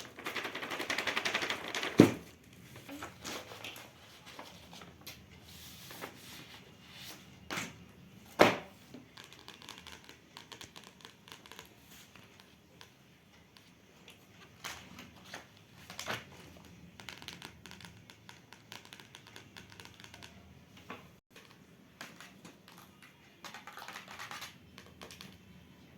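Handling of school supplies and their packaging: a crinkling rustle in the first two seconds, a sharp knock at about two seconds and another at about eight and a half seconds, then scattered light clicks and taps.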